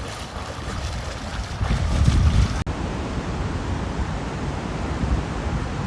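Storm wind buffeting the microphone in gusts over a steady rushing hiss. The sound changes abruptly about two and a half seconds in to a similar windy rushing recording.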